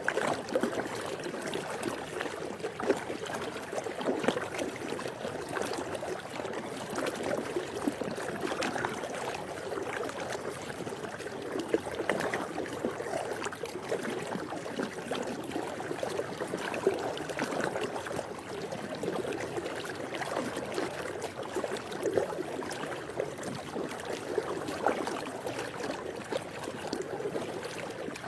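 Swimming pool water lapping steadily, with a few sharper splashes now and then.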